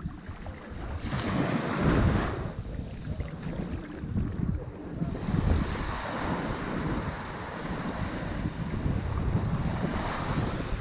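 Ocean waves breaking on a shore as surges of surf wash: a short one about a second in and a longer one from about five seconds to nearly ten, with a low wind rumble on the microphone.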